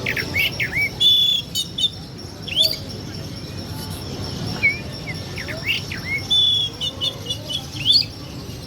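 A songbird singing in quick bursts of sweeping whistled notes and short rapid trills, a varied song full of mimicked phrases, the bird in full song. A faint steady high tone runs underneath.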